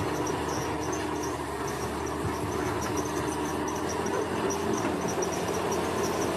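Heavy diesel engine of earthmoving machinery running steadily, with insects chirping rapidly in the background.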